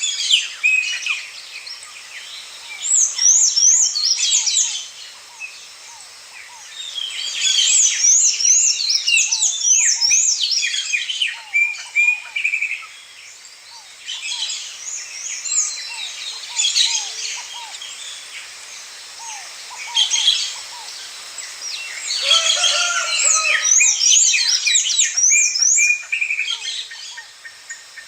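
Several birds singing and chirping at once, in busy bouts of quick high sweeping notes a second or two long, with short lulls between.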